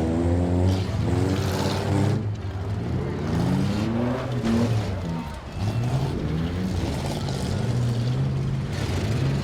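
Demolition derby car engines revving hard, their pitch rising and falling again and again as the cars accelerate and back off, with more than one engine heard at once.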